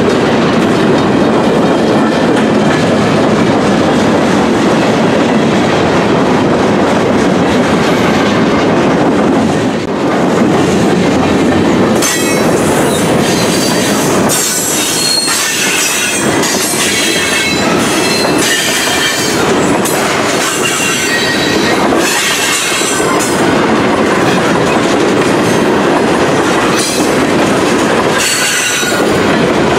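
Loaded and empty freight cars of a long mixed manifest train rolling past close by: a steady rumble and clatter of steel wheels on the rails. From about twelve seconds in, high wheel squeal comes and goes over the clatter.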